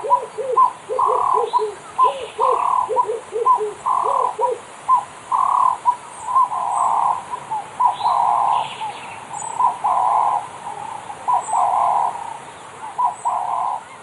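Bird calls: a fast, rhythmic run of short repeated notes alternating with longer, rougher notes, kept up without a break. A lower run of short notes sounds alongside for the first third and then drops out.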